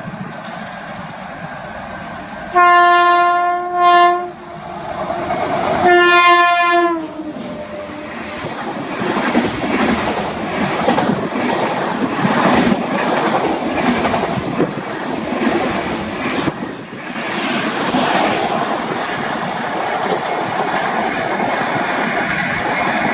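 An Indian Railways train sounds its horn, a blast and a short one a few seconds in, then a third whose pitch drops at its end as it comes past. It then rushes by with the wheels clattering rhythmically over the rail joints.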